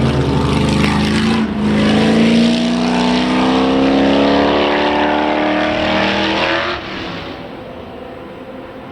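Racing car engine accelerating hard, its pitch climbing steadily, with a brief dip for an upshift about a second and a half in. Near seven seconds the engine sound drops away sharply, leaving a quieter, lower background rumble.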